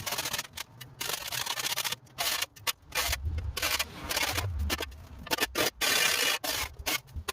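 Rough scraping and rubbing in irregular strokes, each lasting up to about a second, with short gaps between them.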